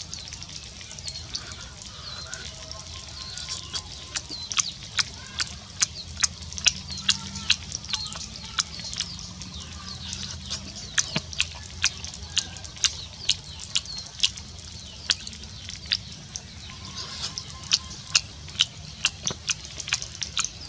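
Close-miked wet chewing and lip smacking while eating grilled fish, a run of sharp, irregular clicks, often two or three a second.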